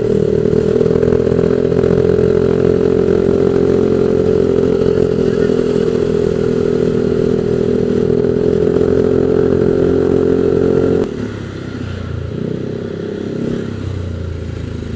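Yamaha Aerox 155 VVA scooter's single-cylinder engine running through an aftermarket exhaust while riding, holding a steady engine note. About eleven seconds in the note drops suddenly and gets quieter, then runs lower and less even.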